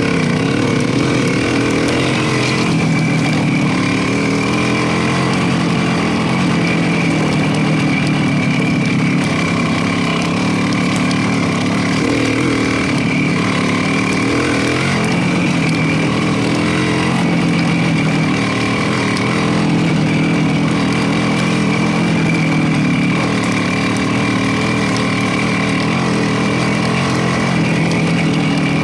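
Motorcycle engine running on the move, its pitch rising and falling in steps with throttle and gear changes.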